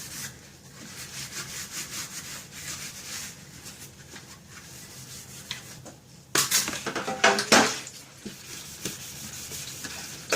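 Fridge shelf parts being scrubbed by hand with Vim dishwash, in repeated scratchy strokes. A louder burst of sound comes a little past the middle.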